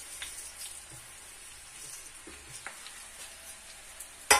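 Puffed rice (murmura) and chana sizzling faintly in a little hot oil in a wok (kadhai), with scattered light crackles. A sharp knock of a utensil against the pan comes near the end.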